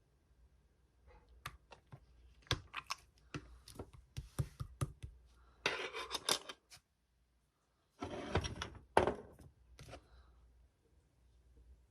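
Hands squeezing and stretching slime, making a run of sticky clicks and pops, with two longer crackling stretches near the middle.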